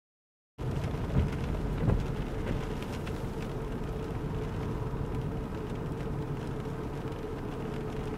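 Silence, then the sound cuts in about half a second in: the steady low noise of a car's interior with the engine running, a faint steady hum over it and two short thumps in the first two seconds.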